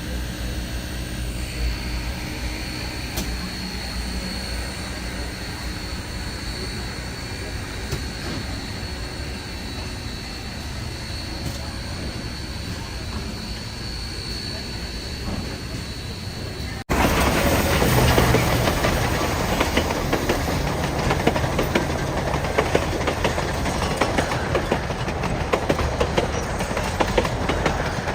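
Durango & Silverton narrow-gauge train rolling by, its wheels clattering over the rail joints. After an abrupt cut about two-thirds of the way through, the clatter is louder and closer.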